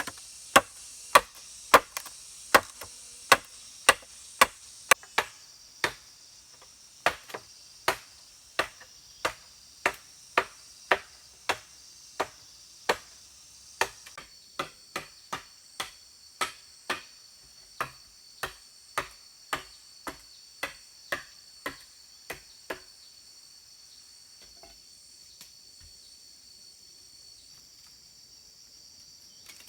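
Rhythmic chopping, a blade striking wood about once or twice a second for a long run, stopping about two-thirds of the way through. A steady high buzz of insects continues underneath.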